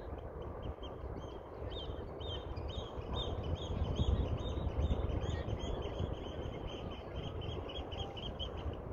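A bird calling a fast series of short, sharp notes, about three a second, starting about a second and a half in and going on almost to the end, over a steady low rumble.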